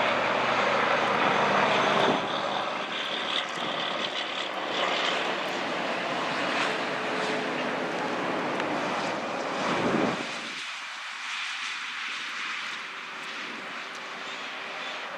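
Heavy trucks passing on a road: engine drone mixed with tyre noise, loudest in the first two seconds. About ten seconds in, one vehicle sweeps close past, and after it the deep engine sound drops away, leaving lighter traffic noise.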